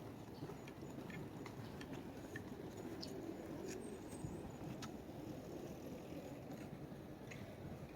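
Quiet city street ambience: a steady low hum of distant traffic and the city, with scattered light clicks and taps.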